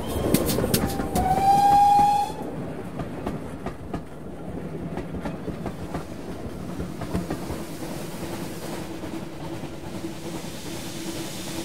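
A train sounds its whistle once, for about a second, a little after the start, over sharp clicks. It then keeps running with a steady rumble and clicks from the rails.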